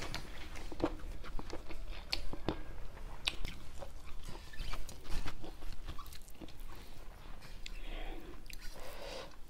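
A person chewing and smacking their lips while eating rice with mushroom curry by hand, with many short wet mouth clicks, and fingers mixing rice on a plate.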